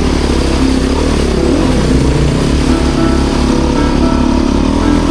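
Motorcycle engine running under throttle while riding off-road, its note rising and falling slightly.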